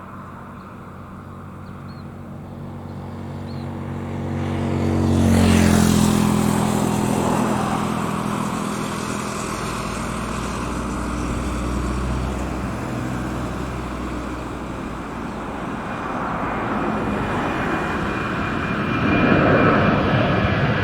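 Jet airliner taking off and passing by. Its engine noise builds up, the pitch drops sharply as it passes about five seconds in, and a steady jet noise follows that swells again near the end.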